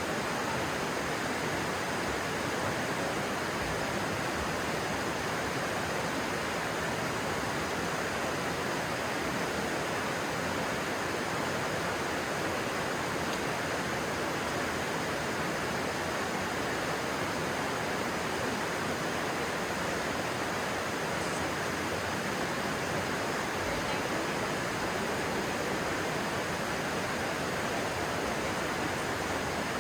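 Water of a stream rushing steadily, an even unbroken noise.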